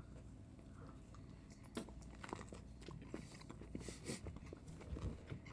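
Faint, close-up biting and chewing of a sandwich of fresh aloe and cactus paddles on soft bread, with scattered small crunches and wet clicks of the mouth.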